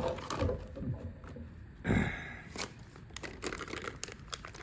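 Packaging being handled and worked open by hand: crinkling and rustling with small clicks, and one louder rustle about two seconds in.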